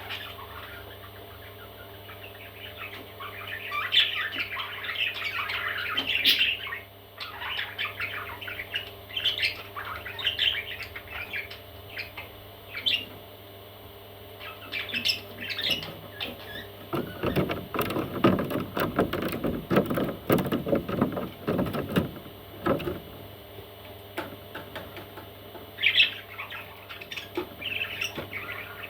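Baby parrots squawking and chirping in short bursts, with a denser stretch of rapid, lower-pitched sounds a little past halfway and a faint steady hum underneath.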